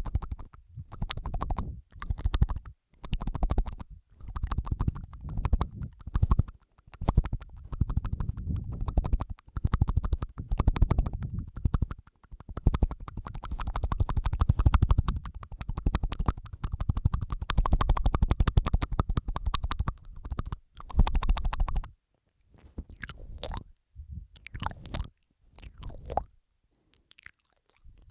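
Layered close-miked ASMR mouth sounds: wet tongue and lip clicks and smacks packed densely in bursts of a second or two, with short gaps between. Over the last six seconds they thin out to sparse single clicks.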